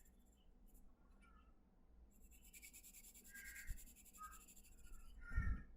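Faint scratching of shading strokes on sketch paper, strongest in the middle, with a soft low thump near the end.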